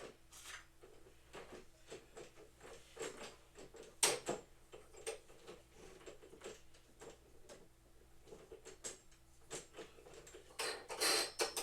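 Equipment parts being handled and fitted together: scattered light clicks and knocks, a sharper knock about four seconds in, and a burst of clattering near the end.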